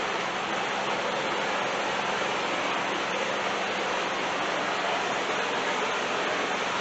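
Handheld flamethrower torch burning with a steady, even hiss.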